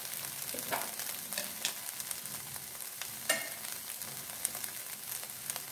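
Vegetable stuffing of onion, cabbage, carrot and capsicum sizzling in a non-stick frying pan: a steady hiss, broken by a few brief clicks.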